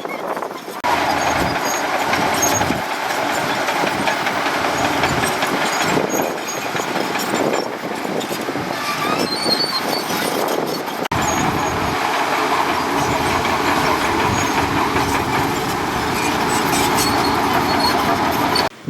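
Heavy diesel earthmoving machinery, a bulldozer or dump truck, running steadily under load. The sound changes abruptly about a second in and again around eleven seconds in.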